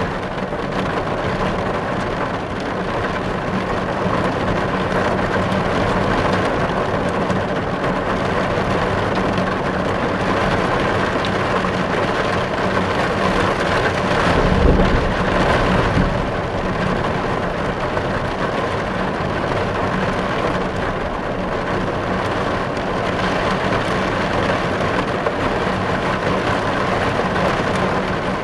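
Heavy rain falling steadily on car glass, heard from inside the car. A brief low rumble swells up about halfway through.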